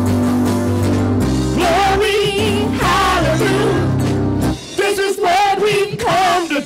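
Live gospel praise music: a church band plays steady low notes, and voices come in singing with a wavering, sustained line about a second and a half in. Around four and a half seconds in the low notes drop out and the singing carries on.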